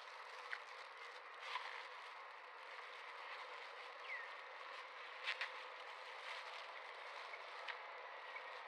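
Steady outdoor background hiss with scattered faint clicks and rustles, and one short high chirp about four seconds in.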